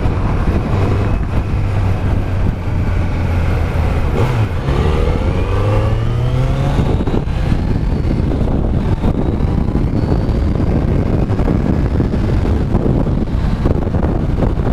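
Kawasaki Z900's stock inline-four engine running on the move: a steady drone, a brief break about four seconds in like a gear change, then rising pitch as it accelerates. Heavy wind rush on the microphone covers the engine for the second half.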